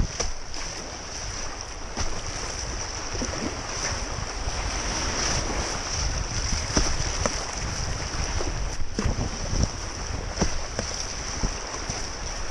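Rushing river water around a kayak, a steady hiss with scattered small splashes and knocks, with wind buffeting the microphone.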